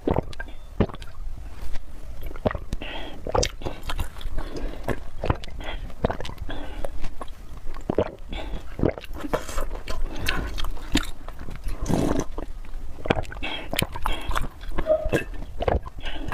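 Close-miked eating of spicy noodles and fried egg: wet chewing with many sharp mouth clicks, irregular throughout.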